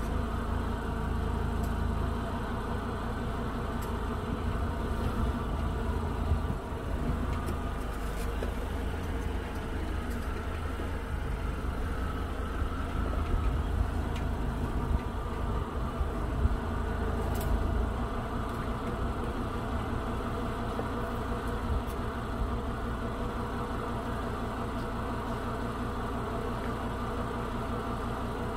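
Off-road Korando's engine running at low speed with a steady low rumble, stronger for the first half or more and settling to a quieter idle a little past halfway.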